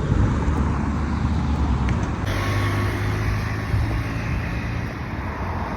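Road traffic going past, a steady road noise with one vehicle's engine hum standing out in the middle.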